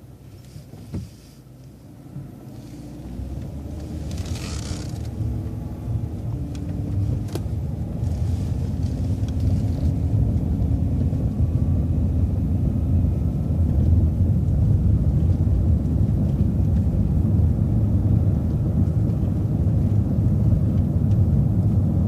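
City transit bus heard from on board, pulling away from a stop: a short hiss of air about four seconds in, then the engine rumble builds as the bus accelerates and settles into a steady loud run.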